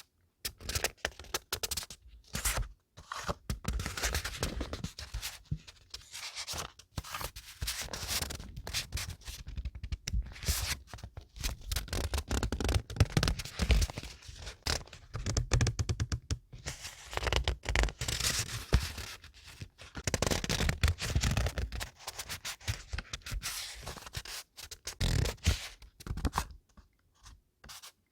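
Paper being handled: irregular rustling, scraping and tearing-like crinkles with short pauses between them, falling quiet near the end.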